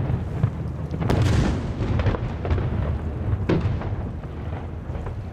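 Aerial firework shells bursting in quick succession: a run of booms and sharp cracks over a heavy rolling rumble, with a big burst about a second in and a sharp crack later on.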